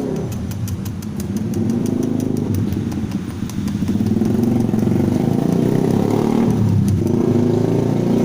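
Motorcycle engine running, growing louder about a second and a half in and again around four seconds.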